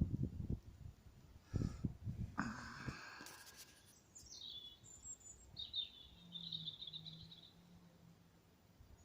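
A songbird singing at night: a short phrase falling in pitch, then a brief high trill. In the first few seconds come low thumps and a short hiss.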